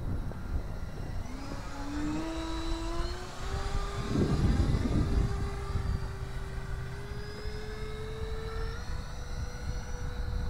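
Electric ducted fan of a 64 mm RC F-16 jet with a 3300 kV motor, whining as it takes off, its pitch climbing steadily as the throttle comes up. Low rumble underneath, with a brief noisy burst about four seconds in.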